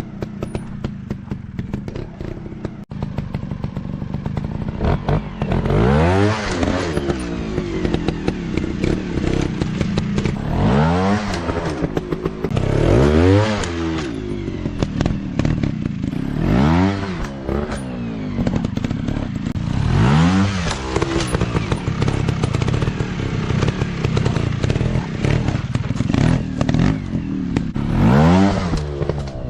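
Off-road dirt bike engine running, with the throttle blipped hard about six times so the pitch sweeps up and falls back over a steady low engine note. It is somewhat quieter for the first few seconds.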